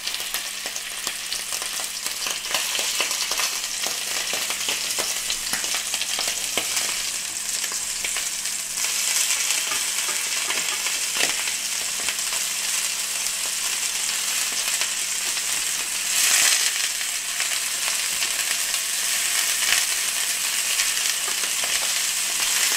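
Scallops sizzling in clarified butter in a hot frying pan, a steady frying hiss. Light clicks come from the fork and spoon as the scallops are turned.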